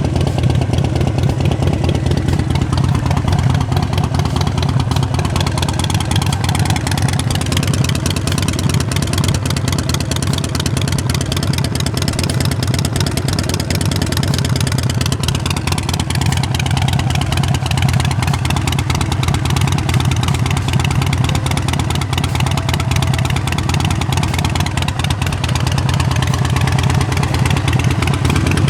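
2006 Harley-Davidson XL1200R Sportster's carbureted 1200 cc V-twin idling steadily through Vance & Hines Short Shots exhaust, a loud, even low pulsing.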